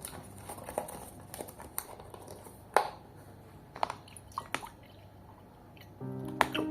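Scattered small clicks and taps, the sharpest about three seconds in. Background music comes back near the end.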